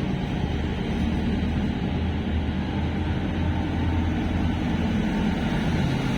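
Diesel engines of a three-unit Trenitalia Minuetto diesel multiple unit (MD041+MD015+MD007) running steadily, a low even drone with a noisy hiss above it.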